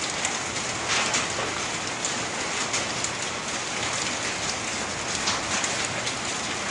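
Rain thick with volcanic ash and sand falling steadily, a dense patter of drops with many small sharp hits.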